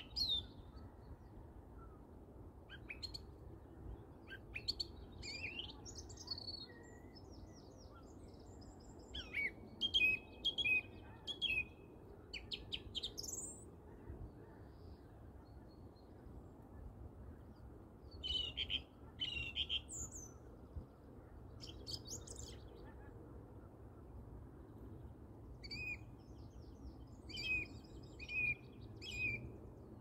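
Birdsong: short, scattered phrases of song and chirping calls with pauses between them, over a steady low background rumble.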